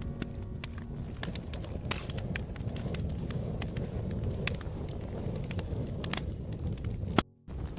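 Wood fire crackling: a steady low rumble with irregular sharp pops and snaps. The sound cuts out briefly just after a loud pop near the end.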